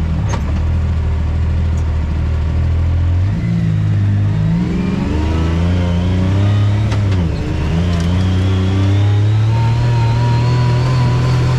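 Off-road vehicle engine running under way. Its pitch dips and climbs twice as the speed changes, then settles steady and higher near the end.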